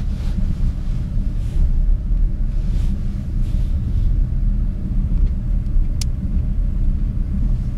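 Steady low rumble of a moving passenger train heard from inside an open-plan sleeper carriage, with a single sharp click about six seconds in.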